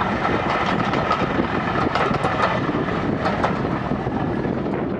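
Train of passenger coaches rolling past on the railway: a steady rumble with many sharp clicks of the wheels on the track.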